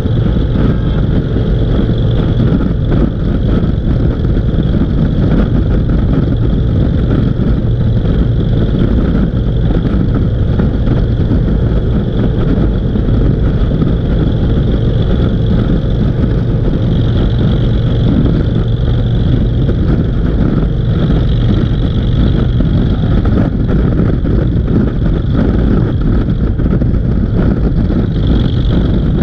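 Motorcycle engines running steadily on the road, with constant road and wind noise.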